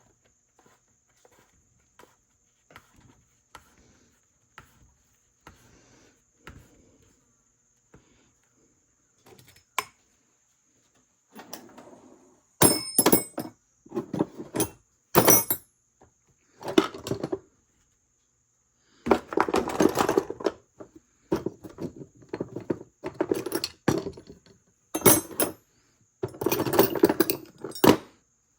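Knocks, clinks and rattles of chainsaw parts and tools being handled and fitted, faint and sparse at first, then louder clusters of hard knocks from a little before halfway.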